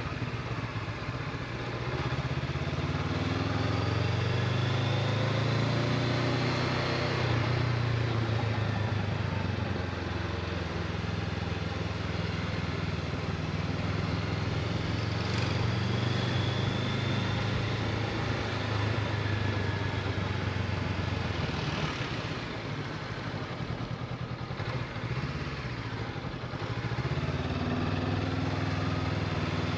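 Honda CB500X parallel-twin engine running while the bike is ridden, its note rising and falling with the throttle. It eases off for a few seconds past the middle and picks up again near the end.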